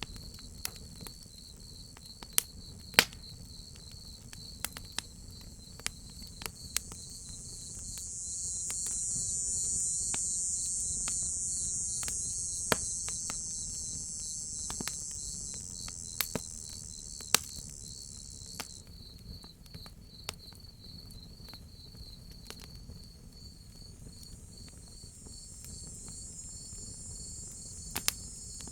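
Crickets chirping in a steady, fast pulsing trill, with a higher cicada buzz that swells in after a few seconds, fades out about two-thirds of the way through and returns near the end. Sharp pops and snaps of a crackling wood fire come irregularly over it, the loudest sounds in the mix, with a low rumble underneath.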